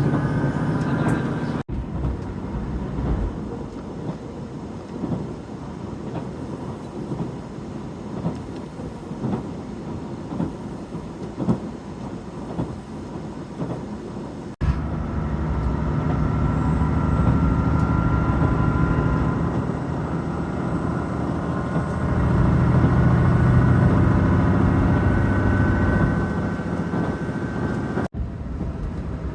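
JR Shikoku 2000 series diesel train running: a rumble with scattered clicks and clatter, then a steady low engine drone with a higher whine as the engine works harder.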